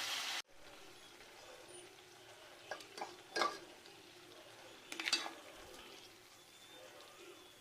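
Mutton curry sizzling in a pan, cut off abruptly about half a second in. Then a low kitchen background with a few light clinks and knocks of cookware, around three and five seconds in.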